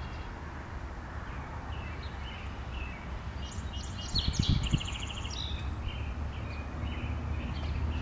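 Songbirds chirping again and again in outdoor ambience, with a louder burst of rapid trilling song about halfway through. Under them runs a steady low rumble, with a few low thumps about halfway.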